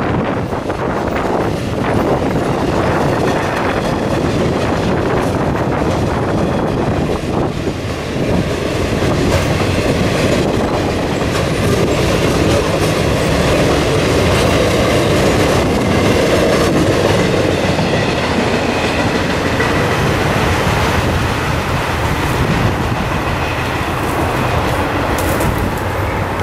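Loaded railroad flatcars of a passing freight train rolling by on a bridge, a steady rumble of wheels with repeated clickety-clack over the rail joints as the last cars go past.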